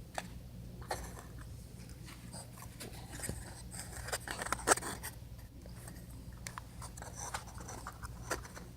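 Light clicks, taps and rustles of small birdhouse-kit pieces being handled and fitted together, with a short run of sharper clicks in the middle, the loudest about four and a half seconds in.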